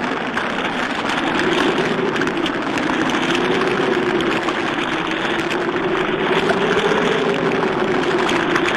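Strong wind howling: a low moaning tone that slowly rises and falls in pitch over a steady rushing noise.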